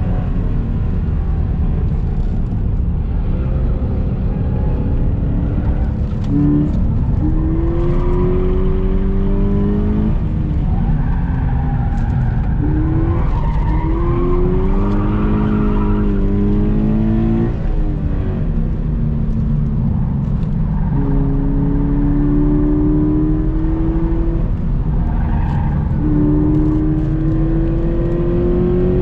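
Subaru BRZ's flat-four boxer engine under load on track, its note climbing slowly and dropping back several times, over heavy road and wind noise.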